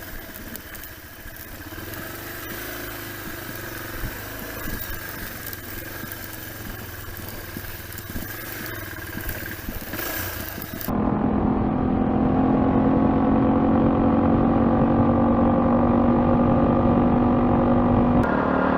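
Adventure motorcycle engine running under way, its note mixed with wind and road noise for the first part. About eleven seconds in the sound changes abruptly to a louder, steady engine hum with less hiss.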